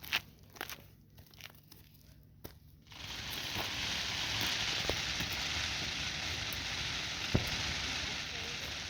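A few faint clicks and taps, then about three seconds in a lit firework starts up with a sudden steady hiss, with a couple of small pops in it.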